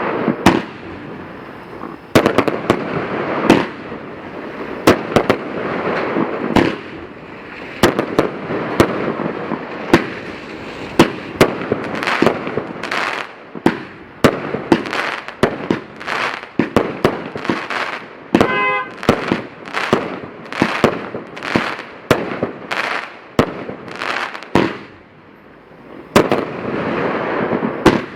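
Aerial fireworks going off in rapid succession: sharp bangs, often several a second, over a constant crackle. There is a brief lull near the end.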